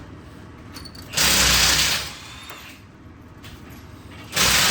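Two bursts of mechanical tool noise, each about a second long: one just past a second in and one near the end.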